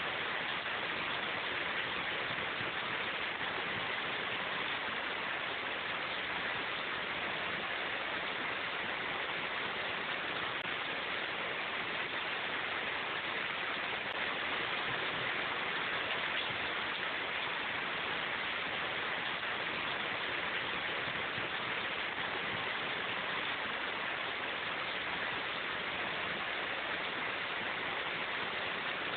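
Steady rain falling in a forest, an even unbroken hiss of drops with no distinct events.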